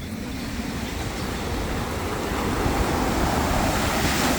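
Ocean surf: a wave rushing in and washing up the beach, its hiss swelling and loudest near the end.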